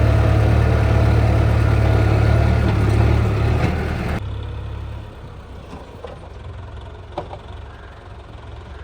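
Tractor diesel engine running steadily, loud and close, for about four seconds, then an abrupt change to a much quieter engine idling with a few faint clicks.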